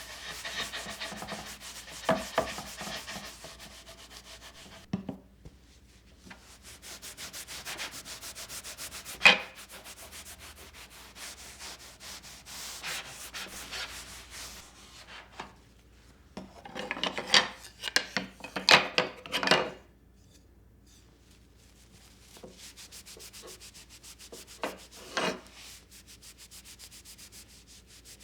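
Scrubbing: rapid back-and-forth rubbing strokes in long runs, broken by sharp knocks and a short burst of clattering about two-thirds of the way in.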